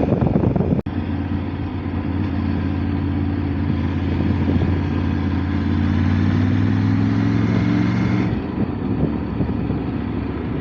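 Motorcycle engine running under way with wind rush, its pitch creeping up for a few seconds, then falling back about eight seconds in.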